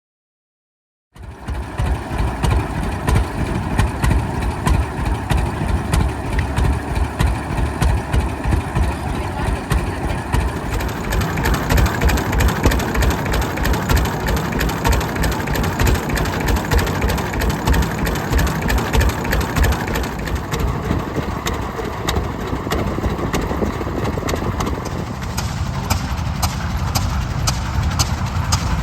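Antique tractor engine running with a steady, rhythmic firing beat. It cuts in about a second in.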